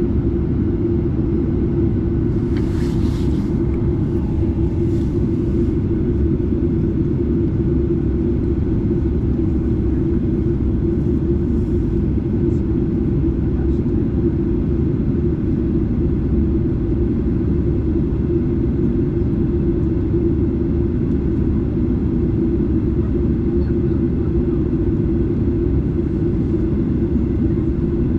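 Steady drone of a Boeing 737-8's CFM LEAP-1B jet engines heard inside the cabin close to the engine: a constant rumble with a strong hum. A short hiss cuts in about three seconds in.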